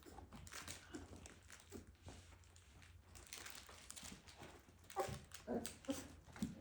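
Five-week-old doodle puppies moving about with faint rustling and scratching, and a few short whimpers near the end.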